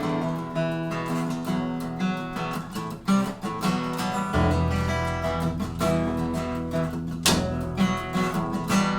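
Live acoustic guitar strumming the instrumental intro of a song. About four and a half seconds in, a low sustained bass note joins it.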